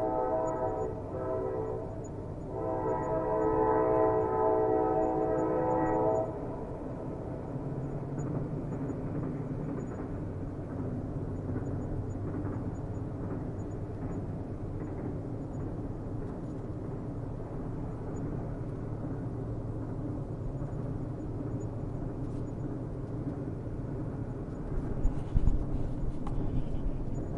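Train horn sounding a chord in two blasts: one already sounding that stops about a second in, and a second about three and a half seconds long. The horn gives way to the steady low rumble of a train on the rails, with a few knocks near the end.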